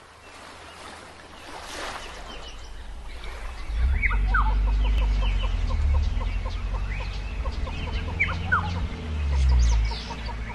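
Birds calling with short rising and falling chirps and a quick run of clucking notes, over a low steady rumble that swells in about four seconds in.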